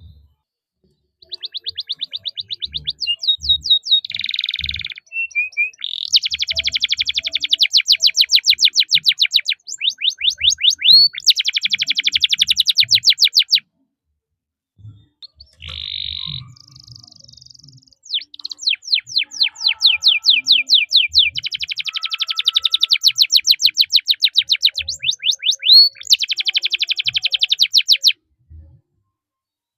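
Domestic canary singing: long rolling trills of fast repeated chirps, "cuit cuit" notes and rolls, in two long phrases split by a pause about halfway through.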